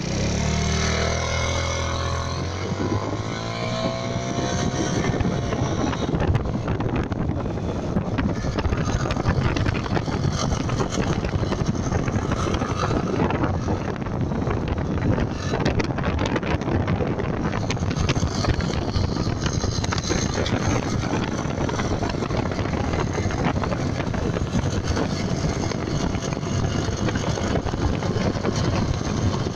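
Scooter engine revving up, then running with a rough, harsh rumble from the left-side variator and transmission. The noise comes on under acceleration and deceleration along with a loss of power; the owner suspects a variator or transmission fault.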